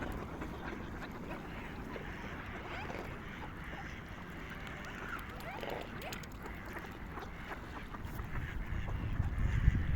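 A flock of swans and other waterfowl calling, many short overlapping calls at once, with a low rumble rising near the end.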